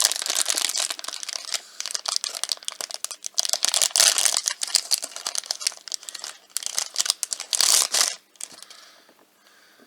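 Crinkly blind-box wrapper being torn open and rustled by hand to get at the toy figure inside; the crinkling stops abruptly about eight seconds in.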